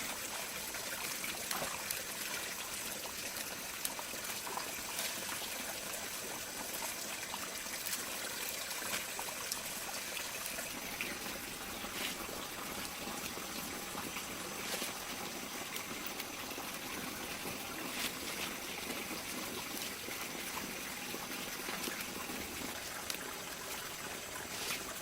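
Steady trickling, running water, with a few faint ticks scattered through it.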